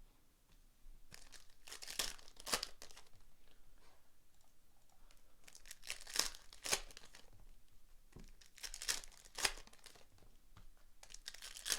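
Foil trading-card pack wrappers being torn open and crinkled by hand, in four bursts of crackling a few seconds apart.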